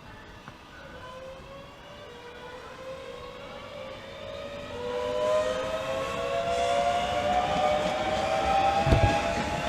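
Class 365 electric multiple unit pulling away, its GTO traction inverters and motors whining in several tones that rise steadily in pitch and grow louder as it accelerates. A couple of low thumps come near the end.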